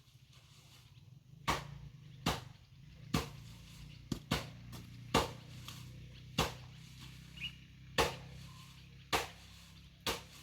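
Hand hoe striking into garden soil over and over, about once a second, as the ground is dug by hand. A steady low hum runs underneath.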